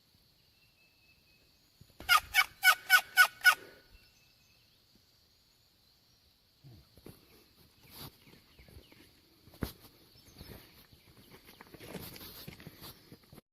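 A male wild turkey gobbling: one loud, fast rattling run of about six notes, about two seconds in. Softer rustling follows, with one sharp click.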